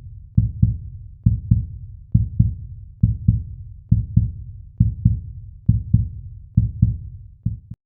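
Heartbeat sound effect: deep double thumps, lub-dub, repeating a little under once a second, nine beats in all, cutting off suddenly near the end.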